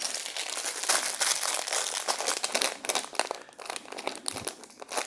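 Plastic Lego parts bag crinkling and rustling as it is handled, a dense run of crackles.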